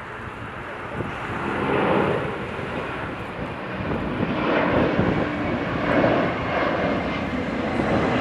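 Jet airliner engines roaring, growing louder about a second in and staying loud.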